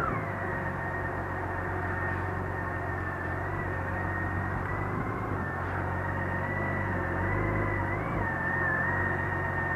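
BMW K1600 GT's inline six-cylinder engine running at low revs while the bike rolls slowly, with a steady high-pitched whine over it.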